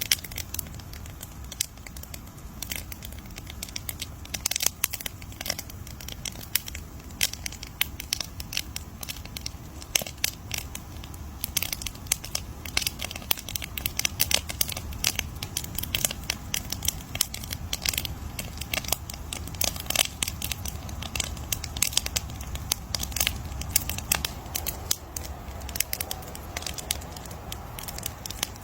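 Wood fire crackling and popping: a dense run of sharp, irregular snaps over a low steady rumble of the flames.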